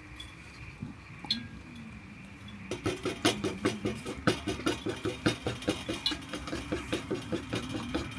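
A utensil stirring aosa miso soup in a pot or cup, clinking against its sides about four times a second, starting a few seconds in.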